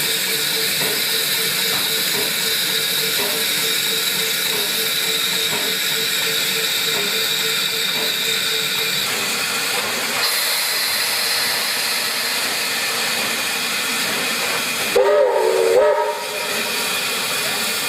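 Steam locomotive hissing steam steadily, with a faint pulsing tone under the hiss for the first half. About fifteen seconds in, a short wavering whistle sounds for about a second while the hiss briefly drops away.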